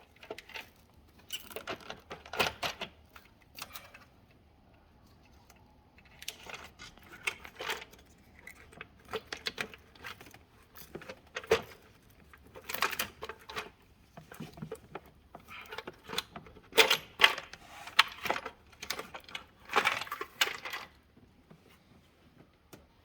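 Small metal parts and tools clinking and clattering as they are handled, in irregular bursts with a short pause about four seconds in.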